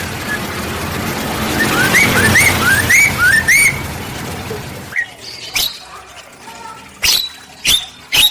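Caged birds in a mixed aviary calling: a quick series of rising whistled notes, then, after the background suddenly drops away about five seconds in, a few loud, sharp chirps.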